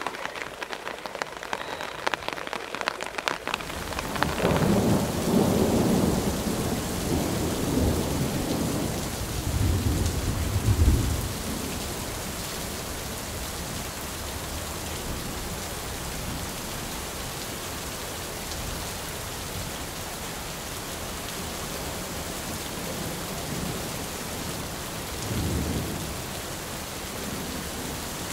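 Steady rain falling, with thunder: a long low rumble rolls from about four seconds in to about eleven seconds, and a shorter, fainter rumble comes near the end. For the first few seconds sharp drops tap close by before the even rain hiss takes over.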